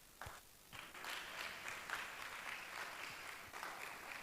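Congregation applauding faintly, the clapping starting about a second in and holding steady.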